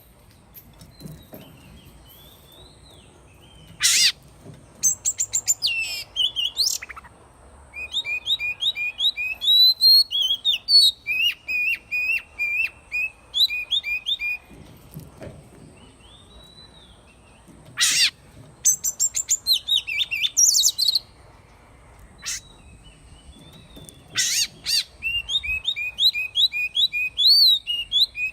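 Oriental magpie-robin singing: phrases of rapid, varied whistled notes a few seconds long, broken by a few loud sharp notes and short pauses.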